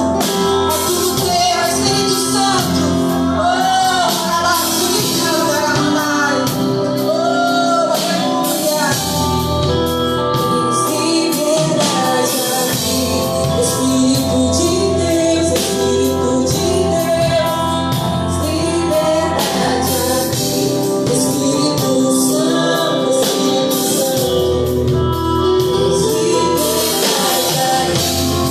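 Live gospel worship music: voices singing over a band with bass, sustained chords and drums with cymbals keeping a steady beat.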